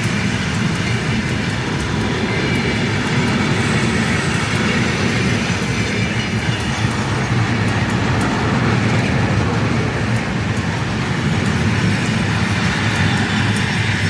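Freight train wagons rolling past: a steady, loud rumble of steel wheels on the rails with faint clicking over it.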